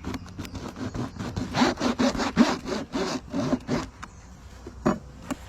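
A block of beeswax rubbed crayon-style on a hive frame in quick back-and-forth scraping strokes, coating it with wax to get the bees to build straight comb. The rubbing stops about four seconds in, and a single knock follows near the end.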